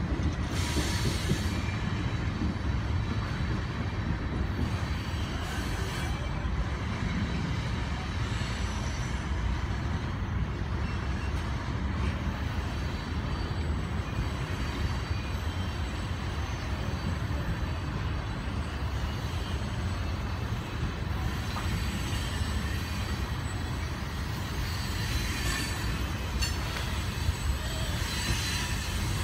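Coal train's cars rolling steadily past: a continuous low rumble of steel wheels on rail, with thin high wheel-squeal tones at times, strongest about a second in and near the end.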